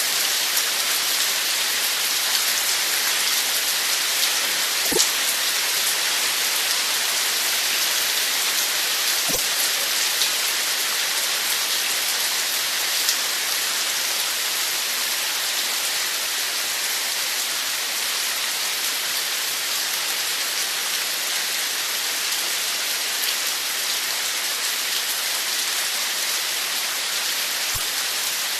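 Steady rain falling: a constant even hiss, with a few louder single drops standing out now and then.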